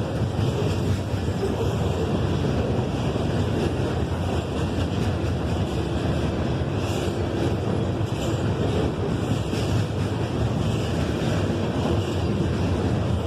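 Freight train rolling past: a steady rushing rumble of wheels on rail, with wind on the microphone.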